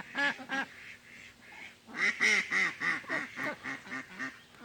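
Ducks quacking in a series of short calls, quickening into a rapid run about halfway through.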